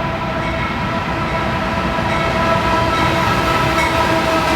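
Freight train passing close by, its diesel locomotives and cars rumbling. Over the rumble runs a steady ringing tone of several pitches that grows a little louder.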